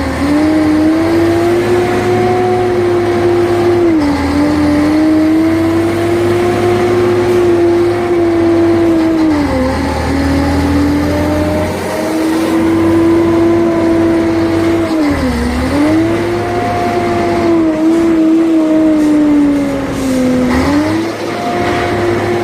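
Scania 113 truck's diesel engine running with a loud, steady drone whose pitch briefly drops and comes back up four times, about every five seconds.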